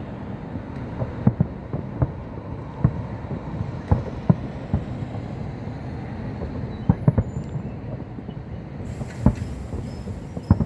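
Fireworks going off: irregular sharp bangs and booms, one to three a second, over a low rumble, with a hissing crackle joining in near the end.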